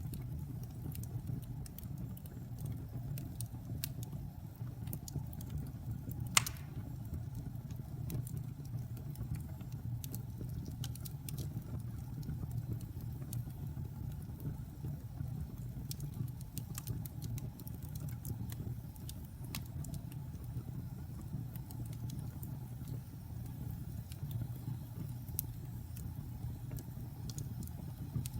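Wood fire burning in a fireplace: a steady low rumble of flames with scattered crackles, and one sharp, louder pop about six seconds in.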